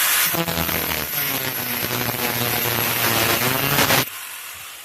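Angle grinder with a cutoff wheel cutting through steel pipe, the motor's pitch shifting as it bites into the metal. It cuts off sharply about four seconds in, leaving a quieter hum.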